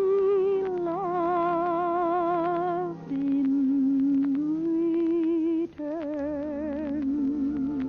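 A woman's singing voice holding three long, wordless notes in turn with a wide, even vibrato over soft accompaniment, on an old radio-broadcast recording with a narrow, muffled top end.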